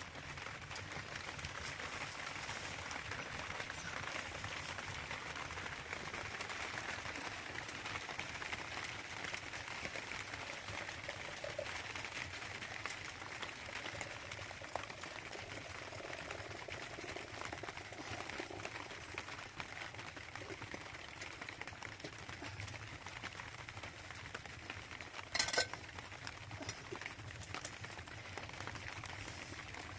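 Steady rain hissing on surfaces, with one brief, sharp knock about twenty-five seconds in.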